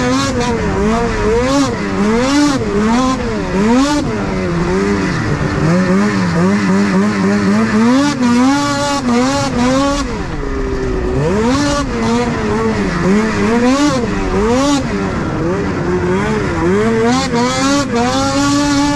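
Two-stroke 600 race snowmobile engine revving hard, its pitch climbing and falling over and over as the sled is pushed around a motocross track.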